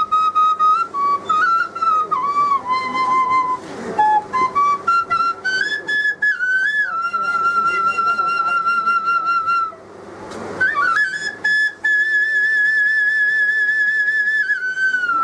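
A flute played through the nose in a melodic tune. The notes step up and down, with vibrato and quick ornamental turns, and the phrases break for breath about four seconds in and again about ten seconds in.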